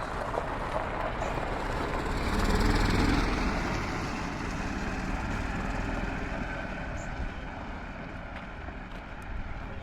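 A motor vehicle passing, its rushing noise and low rumble swelling to the loudest point about three seconds in, then slowly fading.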